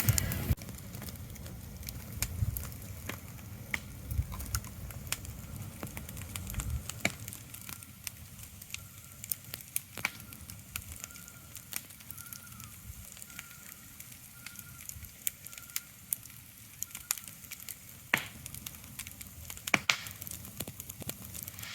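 Sparse, irregular crackles and pops over a faint steady hiss, with a low rumble under them that drops away about seven seconds in.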